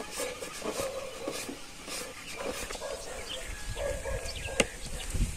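Outdoor animal sounds: short repeated calls and faint bird chirps, with one sharp click about four and a half seconds in.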